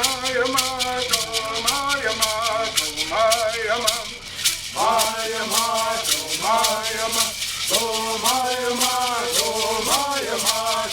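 Bird singing: singers chant in unison while gourd rattles are shaken in a steady beat of about four strokes a second. The song comes in short phrases with brief breaks, one near the middle, while the rattles keep going.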